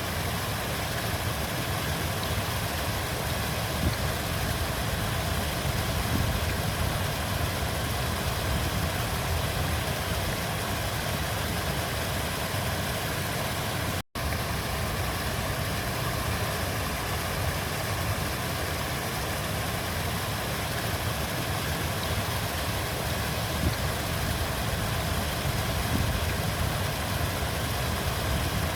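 River water flowing, a steady rushing with a deep low rumble and no change in level, broken by a split-second dropout about halfway through.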